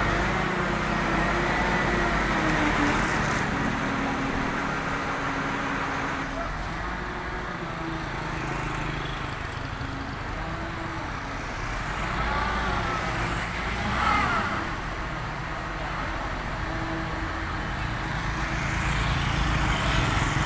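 Vehicle engines and road traffic running steadily, with people talking in the background at times.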